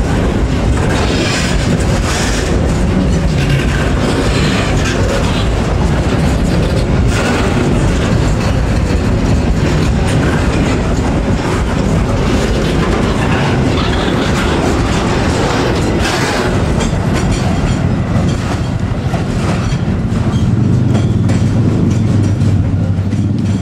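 Container freight train's wagons rolling past at close range, wheels clattering over the rail joints with a steady rumble. A steady low hum comes in near the end.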